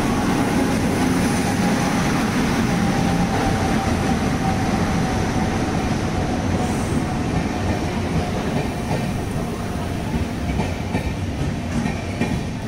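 Passenger train arriving at a platform behind an electric locomotive: a loud, steady rumble of coaches rolling slowly past, with a thin squeal that slowly drops in pitch over the first several seconds.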